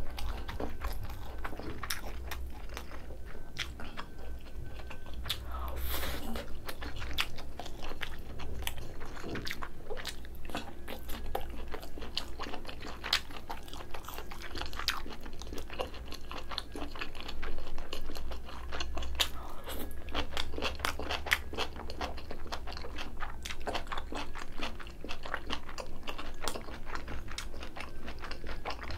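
Close-miked chewing with crisp crunches and many small wet mouth clicks, from a mouthful of cabbage kimchi and rice.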